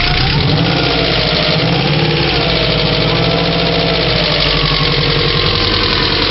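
Subaru EJ22 flat-four engine idling steadily just after its first start on new cylinder heads, with a clacking valvetrain: the hydraulic lifters have not yet pumped back up. A tone in the sound rises and falls over the first couple of seconds.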